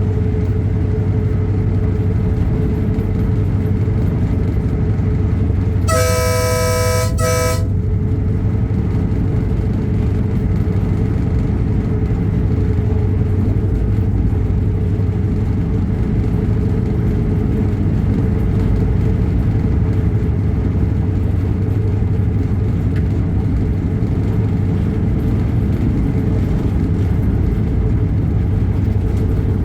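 Diesel train engine running steadily, with a two-note horn blast of about a second and a half some six seconds in, and another horn blast starting at the very end.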